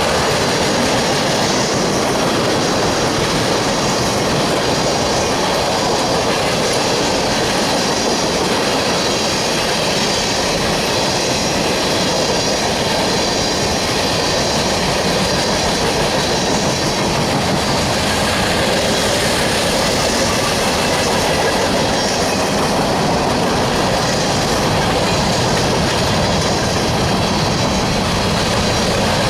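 Manifest freight train's cars rolling past on steel wheels: a steady rumble with the clickety-clack of wheels over the rail joints.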